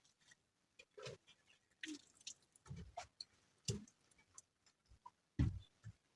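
Irregular light knocks and clicks with a few low thumps; the loudest thump comes about five and a half seconds in.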